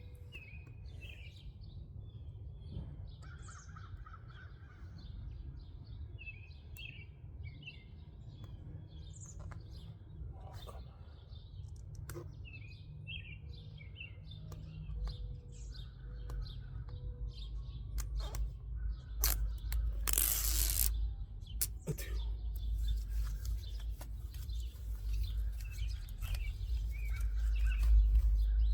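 Small birds chirping again and again in the background, with scattered light clicks and a low rumble that grows louder in the second half. A short hiss about twenty seconds in.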